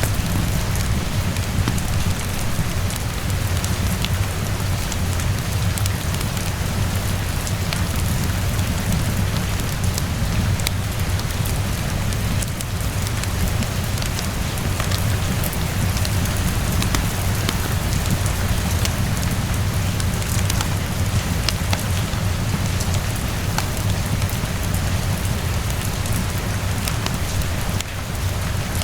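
Steady rainfall with a low rumble underneath, mixed with the scattered snaps and pops of a crackling wood fire.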